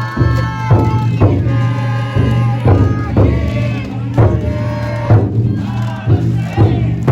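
Futon daiko festival music: a taiko drum struck about twice a second under voices singing long held notes, with a crowd around.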